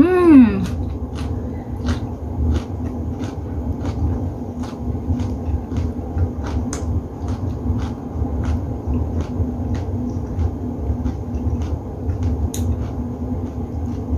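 A short hummed 'mmm' of enjoyment rising and falling in pitch at the start, then close-miked chewing of leafy greens and shrimp, with small wet mouth clicks about every half second. A steady low hum runs underneath.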